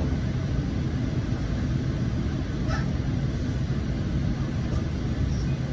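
Steady low rumble heard inside a Coaster commuter train car as it stands at the platform with its doors closed, the diesel locomotive running ready to depart.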